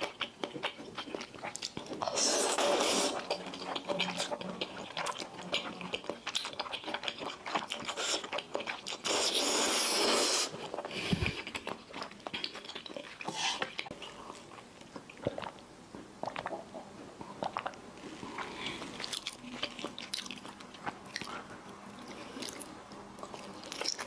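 Close-miked chewing and biting of grilled cheese sticks: many small wet clicks and smacks, with two louder stretches about two seconds and nine seconds in.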